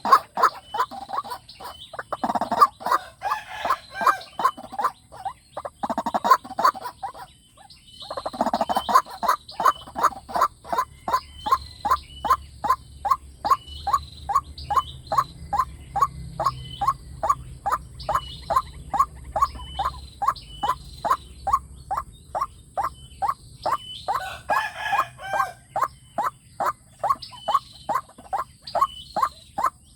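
White-breasted waterhen calling: a long series of short, repeated notes, about three a second, broken by a few louder bursts of faster, harsher calling.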